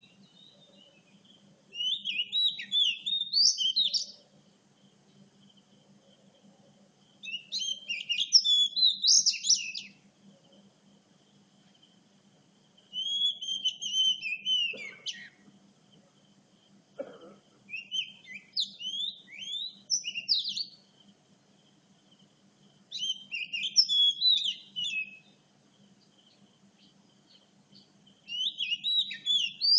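Oriental magpie-robin singing: varied whistled phrases about two seconds long, repeated every five to six seconds. A faint low hum runs underneath.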